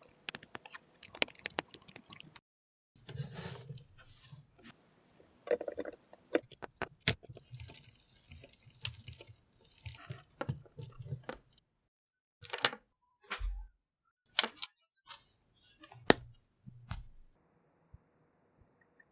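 LEGO pieces being handled and snapped together: a string of sharp plastic clicks and short rattles, with brief pauses between them.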